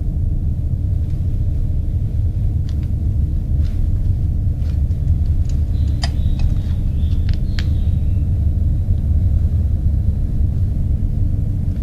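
A steady, deep low rumble, with a few faint clicks and a faint high tone near the middle.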